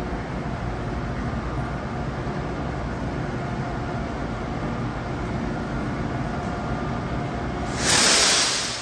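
Steady hum of a stationary Amtrak Amfleet I passenger train standing at a platform. Near the end a loud hiss lasts about a second, then fades.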